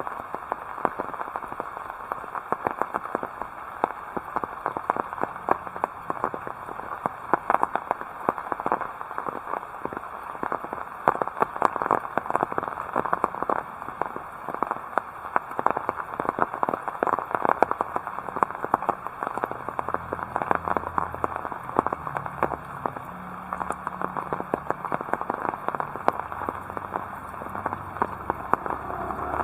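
Heavy rain falling steadily, a dense crackling patter of drops. A low hum joins in about two-thirds of the way through.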